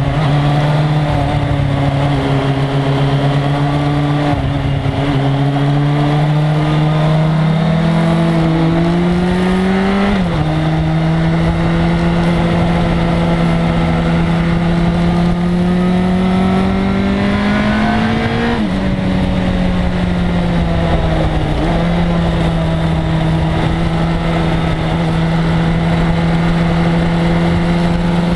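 1997 Suzuki GSX-R1100's inline-four engine pulling on a racetrack, its pitch climbing slowly under throttle and then dropping sharply at an upshift, about a third of the way in and again about two-thirds in.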